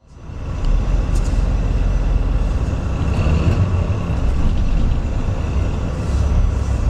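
Steady rumble of a moving vehicle heard from inside, strong in the low end, with a thin steady high whine over it; it fades in over the first second.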